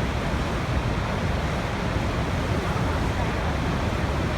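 Waterfall: water falling steadily, an even, unbroken rush of noise with a heavy low rumble.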